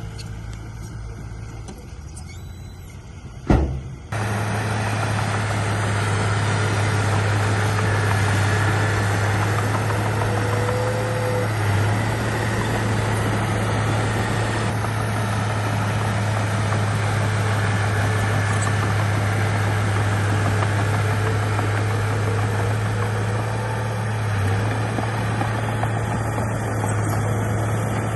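Heavy diesel engine of earthmoving equipment running steadily with a deep drone. A single sharp knock about three and a half seconds in, after which the engine is louder.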